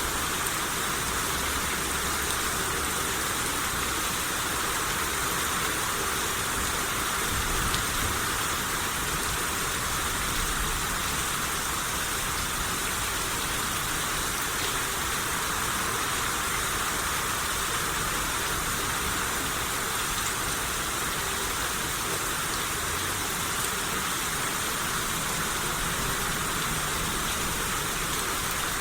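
Steady rain falling, an even hiss of drops on surfaces with no let-up, and a brief low rumble about eight seconds in.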